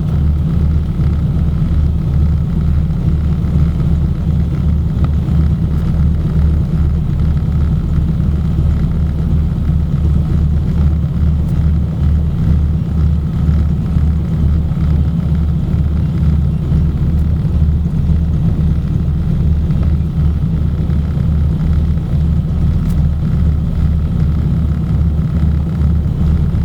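Junkers Ju 52's three radial engines running at low power, heard from inside the cabin as the aircraft taxis in after landing: a loud, steady low drone with a regular throb.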